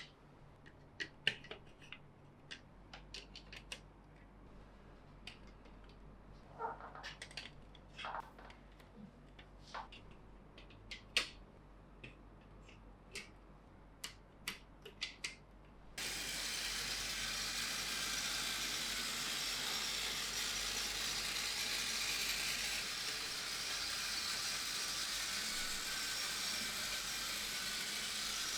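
Plastic Plarail toy track and pieces clicking and knocking as they are fitted together, in scattered sharp clicks. About halfway through, a steady whirring rattle starts abruptly: battery-powered Plarail toy trains running on the plastic track.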